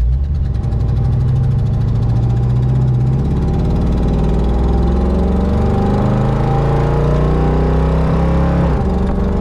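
Ford Ranchero's carbureted V8 pulling steadily at part throttle as the pickup gathers speed, heard from inside the cab; it is driven at about half pedal because it bogs when floored. The engine note steps about three seconds in and again near the end.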